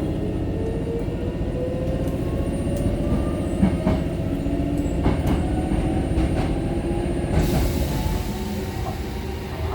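Hankyu 6000 series resistance-control electric train heard from inside the car: traction motors whine and rise slowly in pitch as it picks up speed, over a steady running rumble. The wheels click over rail joints a few times in the middle, and a broad hiss comes in about seven seconds in.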